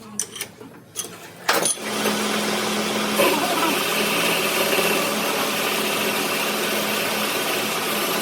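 A few light clicks, then a machine starts with a sharp knock about a second and a half in and runs steadily with a low hum.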